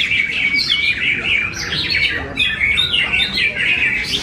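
Leafbird (cucak ijo) singing a continuous, rapid, varied song of chirps and trills.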